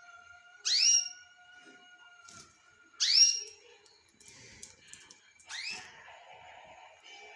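Pet lovebirds calling: three loud, shrill chirps about two and a half seconds apart, each sweeping up in pitch and then holding, with softer chattering between them and a faint steady whistle-like tone in the first couple of seconds.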